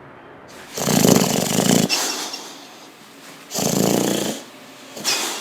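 Sleeping dog snoring loudly: two long rattling snores about three seconds apart, with a third starting near the end.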